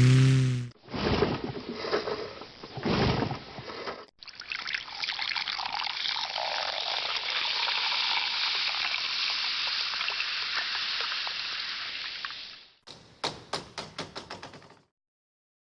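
A small engine, the lawnmower clip, cuts off in the first second. Then a carbonated drink: a few seconds of handling and opening, a long steady pour with fizz lasting about nine seconds, and a short run of quick crackling pops.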